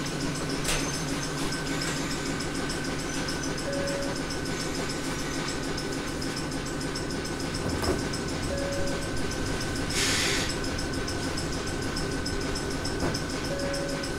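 Ohmi Railway 800 series electric car standing at a station, its onboard equipment giving a steady hum and a constant high whine. A short beep repeats about every five seconds. A brief hiss of released air comes about ten seconds in.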